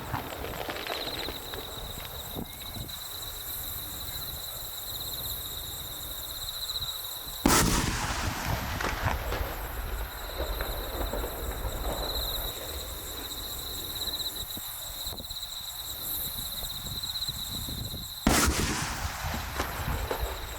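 Fireworks display: two loud aerial shell bursts about eleven seconds apart, each followed by a tail of crackling, with a steady high-pitched trill underneath.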